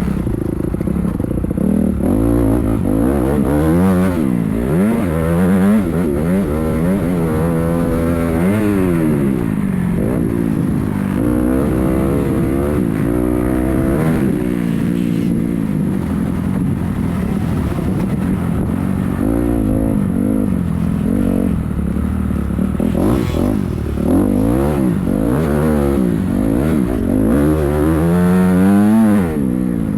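Motocross bike engine revving hard and easing off again and again as the throttle is worked, its pitch repeatedly climbing and dropping.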